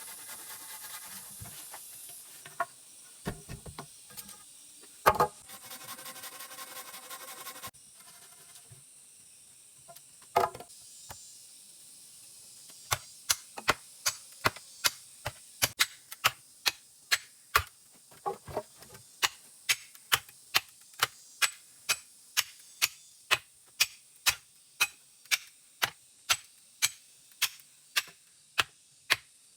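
A steady hiss with a few scattered knocks, then from a little under halfway in a long, even run of sharp knocks at about two a second.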